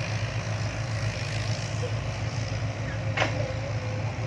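Heavy diesel engine idling steadily, with one sharp click about three seconds in.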